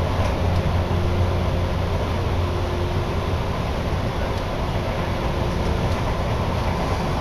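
Electric commuter train running at speed, heard from inside the passenger car: a steady low rumble of wheels on rail with a faint constant hum. The deepest rumble eases after about three seconds.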